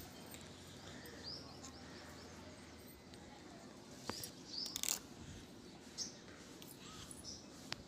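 Nits popping as they are crushed between fingernails: sharp clicks, one about four seconds in, a quick cluster just before five seconds, another near six seconds and a last one near the end. Faint bird chirps and a low hiss lie underneath.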